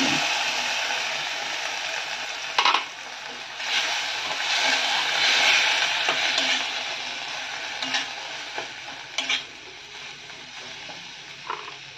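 Cumin paste and masala sizzling in hot oil in a stainless steel kadai while a steel spatula stirs and scrapes the pan, with a few sharp clicks of metal on metal. The sizzle is loudest as the paste goes in, swells again mid-stir and fades toward the end.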